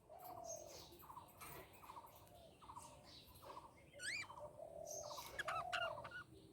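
Budgerigar chirping and warbling softly: short trilled chirps repeat about every half second, with quick rising whistles about four seconds in and a louder warble near the end.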